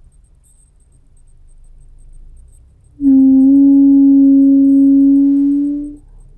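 Buzzing hum from a Volkswagen Jetta Mk6's brakes, applied at under 10 km/h. It comes in suddenly about three seconds in as a loud, steady single note with overtones, steps slightly higher in pitch half a second later, and cuts off after about three seconds.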